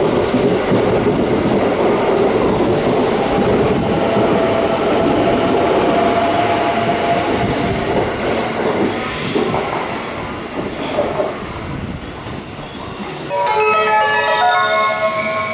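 Electric train running along the platform, the rolling noise carrying a steady motor whine. About two seconds before the end it gives way to a short station chime melody of stepped notes.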